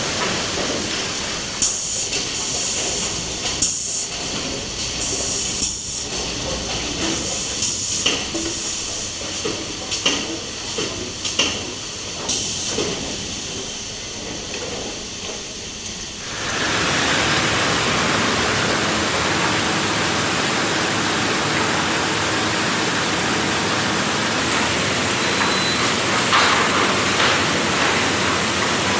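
Wood-processing machinery noise. For about sixteen seconds there is a hiss broken by irregular knocks and clatter, then it switches abruptly to a loud, steady hiss.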